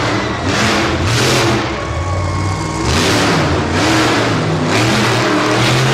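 Monster truck engine revving hard in repeated bursts, its pitch rising and falling.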